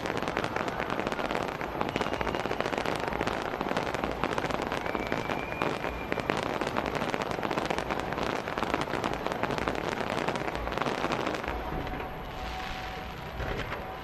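Fireworks display going off in a dense, continuous crackle of rapid pops and bangs, easing a little about two seconds from the end.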